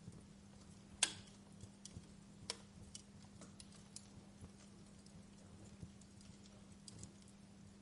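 Wood fire in a fireplace crackling: scattered sharp pops and ticks, the loudest about a second in and another about two and a half seconds in, over a faint steady low hum.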